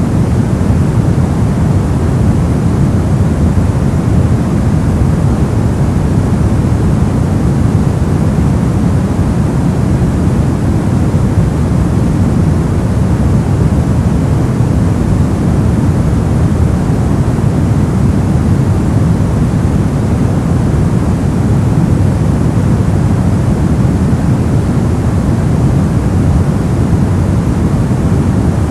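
Brown noise: a steady, deep rumbling hiss with its energy heaped in the low end and little treble, unchanging throughout.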